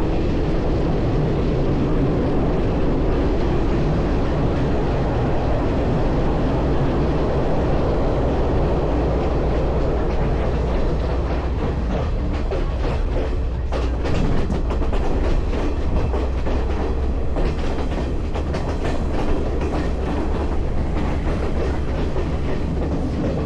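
A train running on rails: a steady low rumble, with wheels clicking over the rail joints, the clicks densest in the second half.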